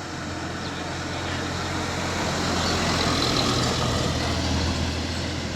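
A truck's engine running as it passes on the road, the hum and tyre noise building to a peak about three seconds in, then easing off.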